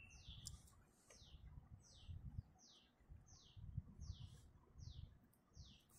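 A bird chirping faintly in the background: a string of short, high notes, each sliding downward, about two a second.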